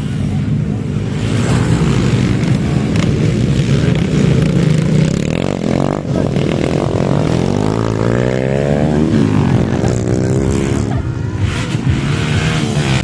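Motocross dirt bike engines running hard as the bikes race, revving up and down with the throttle. The pitch climbs and drops several times in the middle.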